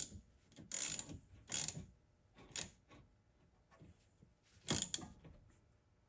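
Ratchet wrench clicking in short bursts, about five strokes in all, as the brake caliper's two bolts are run in and tightened.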